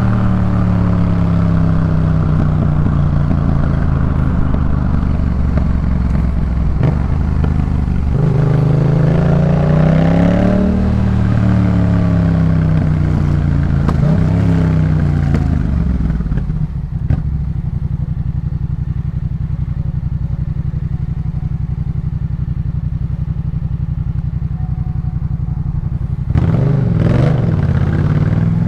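2018 Yamaha MT-07's parallel-twin engine through a Jeskap K4 full aftermarket exhaust: the note falls off, rises as the bike pulls about 8 seconds in, then eases down and settles into a steady low note from about halfway through. A quick rev rises and drops back near the end.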